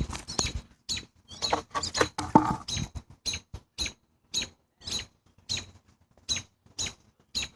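A small bird giving short, sharp, high-pitched squeaks, irregular at first and then evenly spaced at about two a second: distress calls from a bird caught by a dog.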